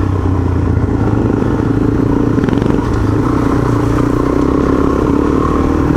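Motorcycle engine running at a steady pace while riding a dirt track, its pitch holding level throughout.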